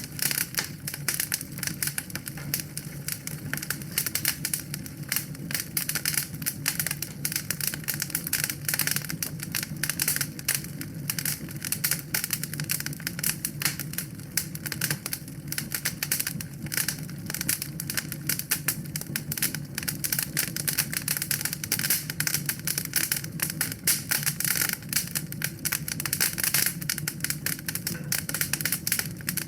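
Wood fire crackling in a fireplace: a dense, continuous run of small snaps and pops over a low steady hum.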